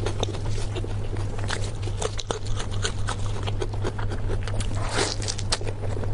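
Close-miked eating sounds: irregular crisp crunches and wet mouth clicks as food is chewed, over a steady low hum.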